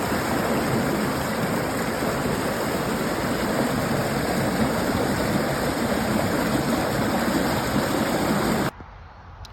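Creek water rushing, a loud steady rush that cuts off abruptly near the end.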